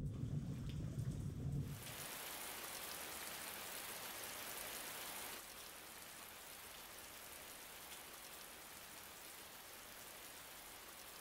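Steady hiss of falling rain, with no distinct drops or rhythm, dropping a step quieter about five seconds in. A low rumble fades out in the first two seconds.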